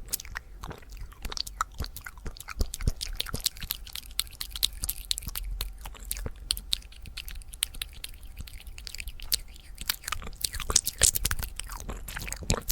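Fast ASMR mouth sounds: a rapid, unbroken run of wet tongue and lip clicks and smacks, many a second.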